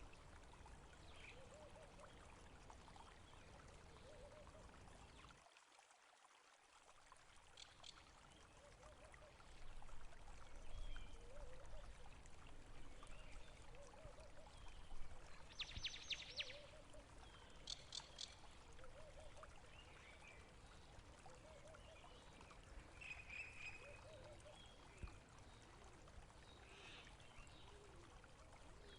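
Faint running water trickling and gurgling, with a few short high bird calls and chirps over it. The sound dips briefly about six seconds in.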